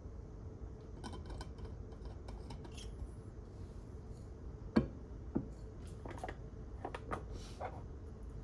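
Library room tone: a steady low hum with scattered small clicks and rustles of objects being handled, and two sharper knocks a little under five seconds in, half a second apart.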